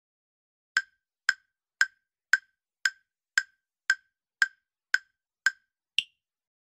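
A ticking timer sound effect: eleven crisp wood-block-like ticks at about two a second, the last one higher in pitch, counting down the time to answer.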